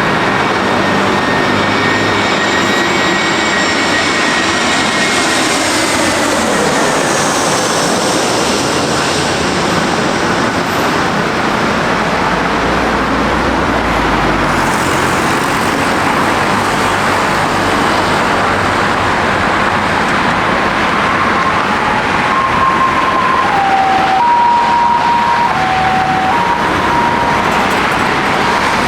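Airbus A321 jet engines running loud and steady as the airliner lands close by, their whine gliding down in pitch as it passes in the first several seconds. Near the end a short run of stepped tones sounds over the engine noise.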